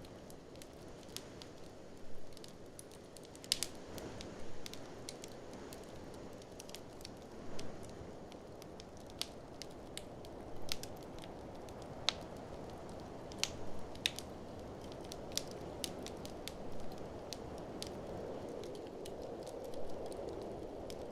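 Fireplace fire crackling, with frequent sharp irregular pops over a steady rushing background of blizzard wind.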